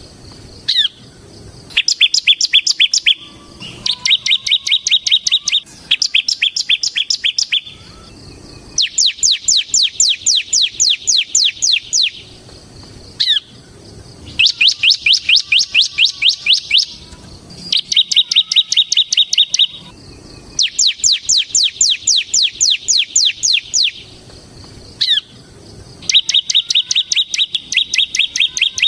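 A ciblek (bar-winged prinia) singing loudly in repeated bursts of a rapid trill, each lasting one to two and a half seconds, with short pauses between them. The bursts alternate between a trill of high sweeping notes and a flatter, steadier trill. A lone short chip falls in some of the pauses.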